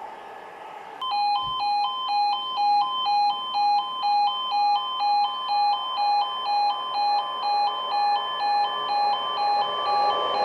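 Level crossing warning alarm sounding: a two-tone electronic alarm that starts suddenly about a second in and alternates between two notes about twice a second, warning of an approaching train. Near the end the rising noise of the train comes in under it.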